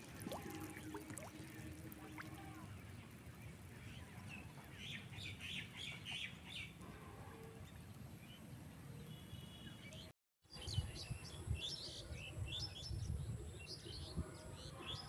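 Small birds chirping in quick clusters of short, high calls over a faint low background rumble.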